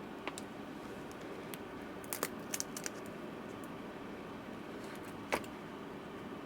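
Scattered light clicks and taps of small parts being handled in an open laptop case as a replacement battery is test-fitted: a few around two to three seconds in and one sharper click about five seconds in, over a steady low hum.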